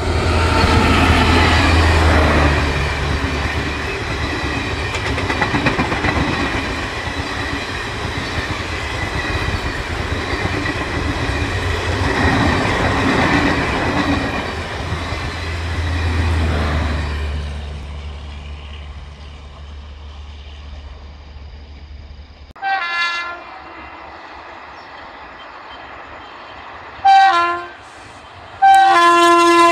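Indian Railways WAP5 electric locomotive and its passenger coaches rushing past at speed, a loud rumble and clatter of wheels on rail that fades away after about 17 seconds. Then an approaching WAP5 sounds its horn: two short blasts, then a longer one near the end that slides down in pitch.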